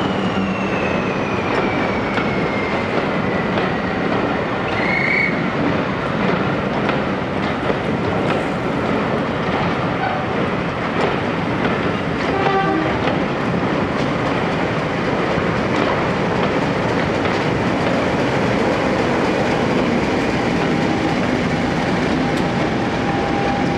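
Diesel-hauled train of passenger coaches rolling past close by: a steady rumble with wheels clicking over the rail joints, and a high whine falling in pitch over the first few seconds.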